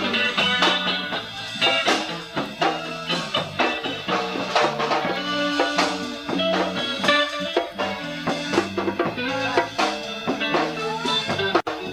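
Live band playing an instrumental passage with a steady beat: guitar and bass guitar over drum kit and bongos, with no singing. The sound drops out for an instant near the end.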